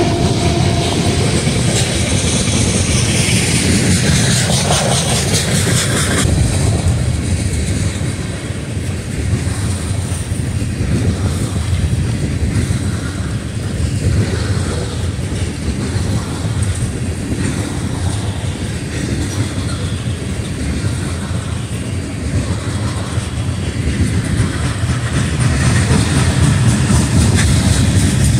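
Freight train's tank cars and covered hoppers rolling past: a steady low rumble with the wheels clacking over rail joints, getting a little louder near the end.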